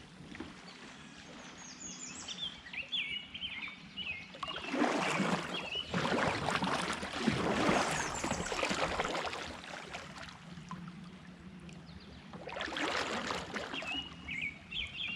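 A kayak moving on creek water: several swells of swishing water a second or two long. In the quieter gaps a small songbird sings short, high chirping phrases.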